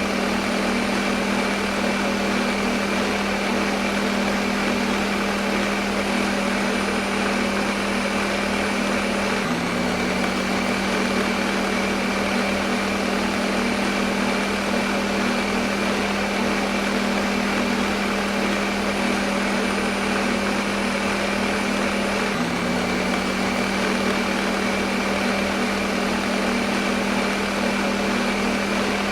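Electric kitchen blender motor running continuously, a steady whirring hum used as white noise. The hum shifts slightly in pitch twice, about nine seconds in and again about twenty-two seconds in.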